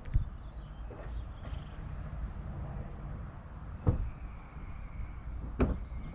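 Three short knocks and thumps of things being handled while a bag and truck are searched through, over a low steady rumble.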